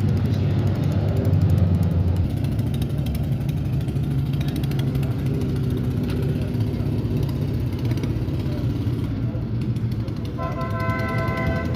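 Vintage Indy-style race car engines running, with the low rumble strongest in the first two seconds. Near the end a brief steady tone sounds for about a second.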